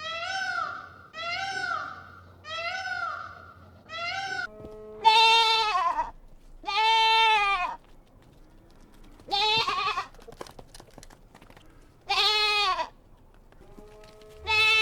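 A cat meowing four times in quick succession, then a goat bleating five times, each bleat about a second long with a wavering pitch.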